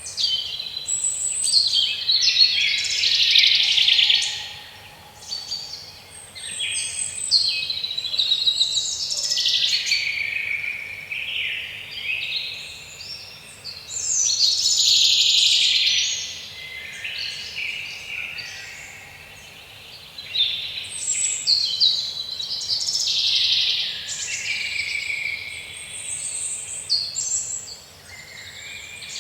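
Small songbirds singing and chirping: a busy stream of high, varied calls in spells, with brief lulls.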